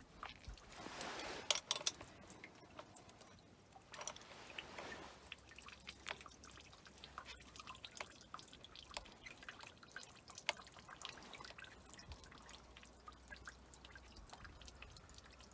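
Faint, irregular clicks and drips as the Ford TW-20's hand service pump is worked to push diesel through to the cracked injection-pump bleed fitting, bleeding air out of the fuel system.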